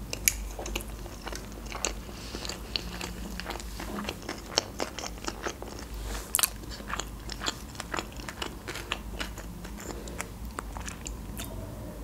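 A person chewing a mouthful of sushi roll, a dense run of small, quick clicks from the mouth.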